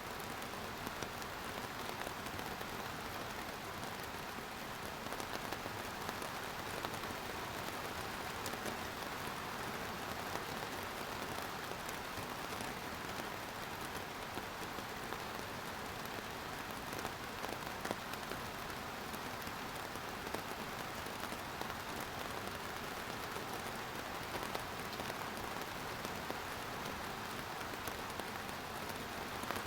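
Steady rain falling, an even hiss with individual drops pattering and ticking sharply on a surface.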